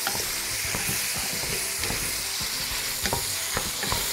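Chopped onion and vegetables sizzling as they sauté in a pan over raised heat, with a utensil scraping and clicking against the pan many times as they are stirred.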